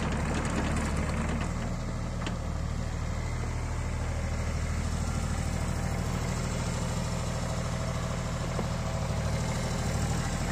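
JCB 8030 mini excavator's diesel engine idling steadily, with a low, even hum.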